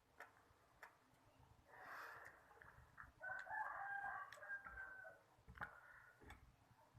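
A rooster crows once: a held call of about two seconds, near the middle. A few faint clicks come before and after it.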